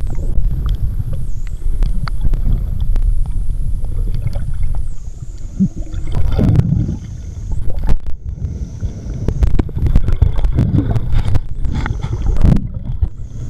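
Underwater camera audio: a muffled, low rumble of water moving against the housing, with gurgling and scattered clicks and knocks. A faint high whine wavers in pitch throughout.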